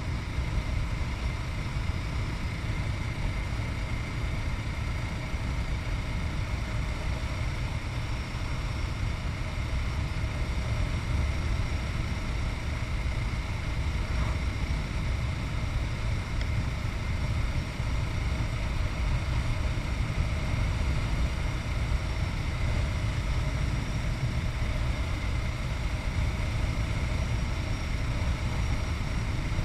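Yamaha MT-03's 660cc single-cylinder four-stroke engine running steadily while riding, under a heavy rush of wind on the microphone.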